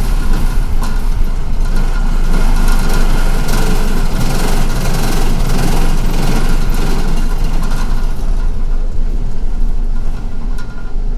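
Cabin noise inside a moving city bus: the engine and road noise make a loud, steady rumble with a hiss over it, which eases off about ten seconds in.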